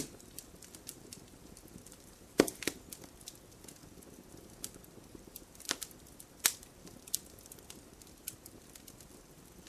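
Wood campfire crackling, with irregular sharp pops and snaps over a faint low hiss of burning. The loudest pop comes about two and a half seconds in, quickly followed by a second, and a few more sound later.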